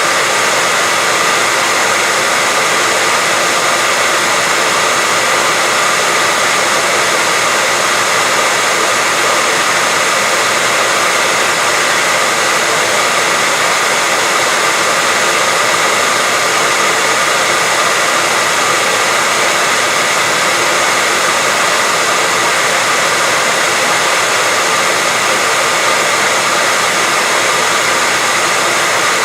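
Continuous white-noise hiss, perfectly steady and unchanging, with a faint steady whine running underneath it.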